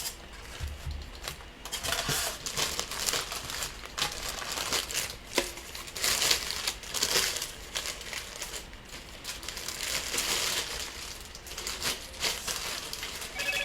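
Packaging being handled and unwrapped, crinkling and rustling in an irregular run of short crinkles.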